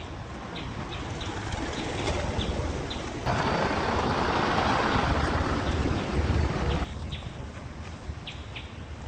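Short high bird chirps repeating. A loud rushing noise sets in suddenly about three seconds in and stops just as suddenly about a second before the end.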